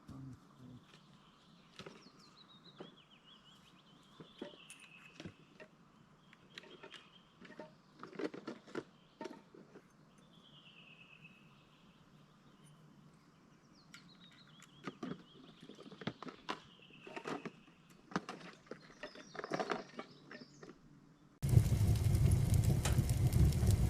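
Scattered knocks and clicks of things being handled, with birds calling in the background in short falling whistles. Near the end the sound cuts suddenly to much louder, dense crackling, like a wood fire burning.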